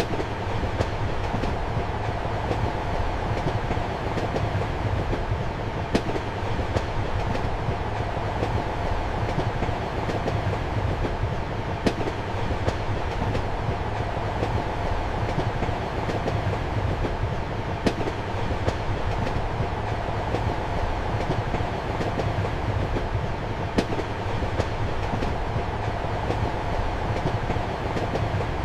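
Steady rumble of a passenger train heard from inside a compartment, with a low hum under the wheel and track noise and a sharp click of the wheels over a rail joint about every six seconds.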